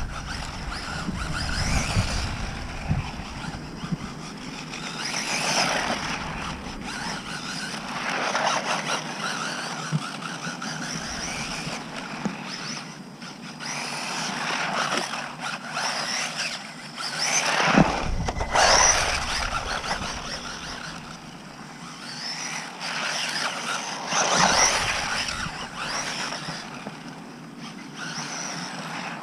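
WLtoys short course RC truck's electric motor and drivetrain whining at full speed. The whine swells and fades several times as the truck accelerates and runs past, its pitch rising and falling, loudest about eighteen seconds in.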